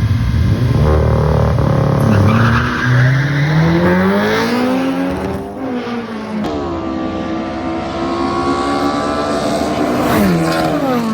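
Drag-racing cars launching and accelerating hard down the strip. Engine pitch climbs and breaks back at each gear change, holds high, then falls near the end as they lift off.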